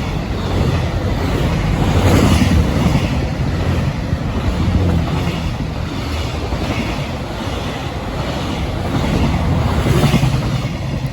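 Freight train hauled by an EF210 electric locomotive passing at speed: a steady rumble of wheels on rails with hiss, swelling every few seconds as the wagons go by.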